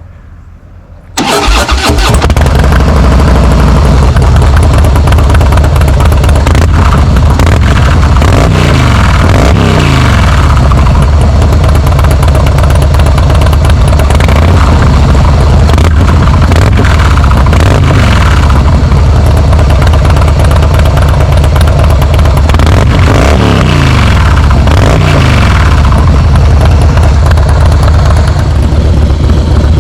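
Harley-Davidson Softail Slim S V-twin engine, breathing through Vance & Hines slip-on mufflers, starting up about a second in and then running loud at idle. The idle is broken by several short throttle blips.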